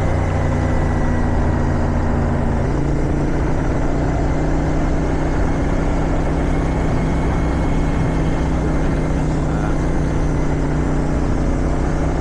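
Motorcycle engine running steadily under way, mixed with wind noise; the engine note changes about three seconds in.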